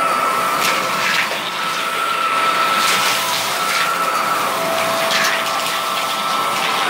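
Vacuum cleaner with a brush roll running steadily with a high motor whine while picking up dirt from a shag carpet. About five short crackles of grit and debris are sucked through it.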